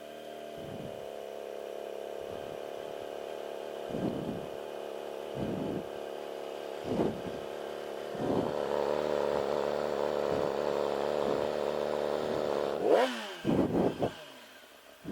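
Yamaha R6's inline-four engine running during a first burnout attempt, held at higher revs from about eight seconds in, with a sharp rev near the end and then the revs falling away. A few short thumps come earlier.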